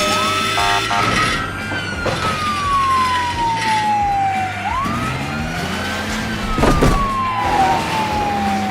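Cartoon police car siren wailing in slow rising and falling sweeps, two full cycles, over a steady low background. A short loud burst of noise comes near the end.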